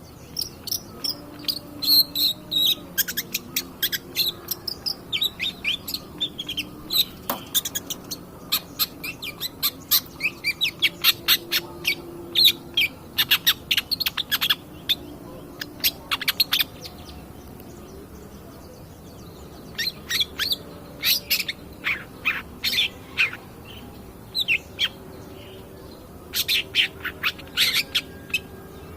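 Long-tailed shrike (cendet) singing actively: rapid runs of short, sharp chattering notes, broken by a pause of a few seconds a little past the middle.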